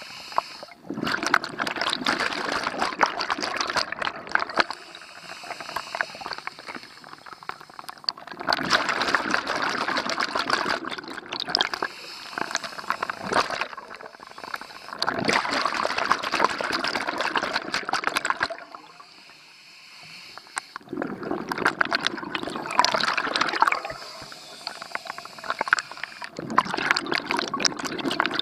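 A scuba diver's exhaled air bubbling out of the regulator underwater. It comes in bursts of about three seconds, five of them, roughly every six seconds, with quieter breathing pauses between.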